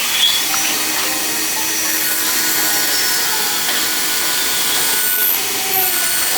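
A power tool running steadily on metal, a constant even noise with a couple of brief louder moments.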